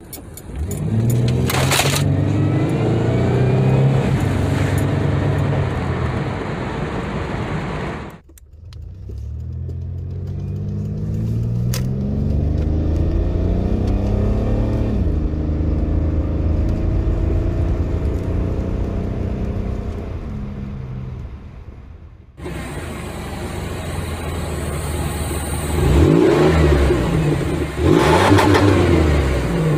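A 1998 Chevrolet Lumina LTZ's V6 engine revved in a series of cut-together clips. First it revs on its stock intake and exhaust; after a cut about 8 seconds in, the revs climb to about 4,500 rpm, fall back and hold. After a second cut, heard from outside by the exhaust, it runs steadily and is blipped sharply twice near the end.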